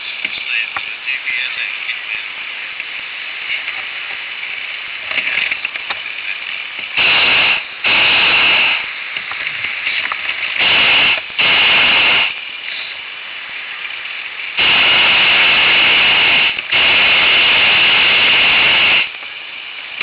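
Hot air balloon propane burner firing in six short blasts, in three pairs, each a loud roar that starts and stops abruptly. A steady hiss with faint crackle lies under them.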